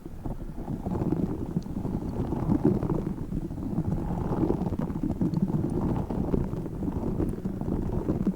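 Tiny spiky Orbeez balls being handled and squished, giving a dense, continuous crackle of small clicks and rustles.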